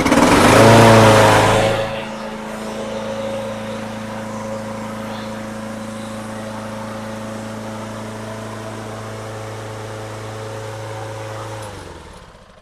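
Lawn-Boy lawnmower engine catching and revving up, then settling into a steady run after about two seconds, and dying away near the end. It is running after a carburetor cleaning, which cured its failure to run.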